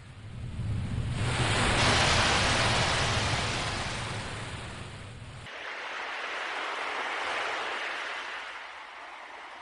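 Ocean waves washing in: two swells of surf that rise and fade, the first louder than the second.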